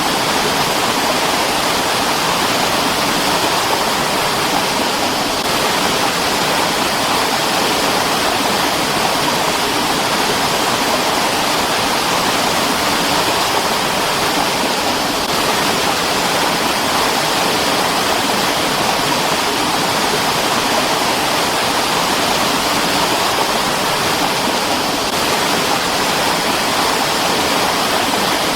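Mountain stream rushing over rocks in a steady, unbroken flow, with its hiss strongest in the upper range and little deep rumble.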